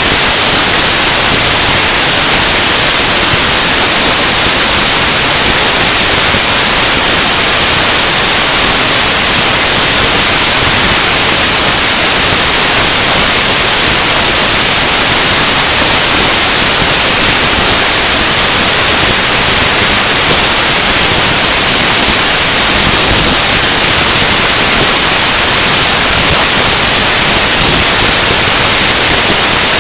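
Harsh noise music: a dense, unbroken wall of loud static hiss, heaviest in the treble, with no beat, melody or change in level.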